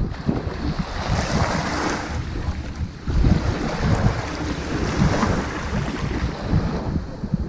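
Ocean waves washing onto a sand beach, the hiss of the surf swelling and fading twice, over a low rumble of wind buffeting the microphone.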